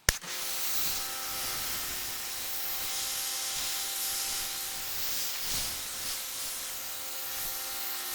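Pressure washer spraying through a mini foam cannon after a sharp click of the trigger: a steady hiss of spray with a constant whine under it. The cannon is foaming poorly, which the owner thinks may be a filter needing cleaning.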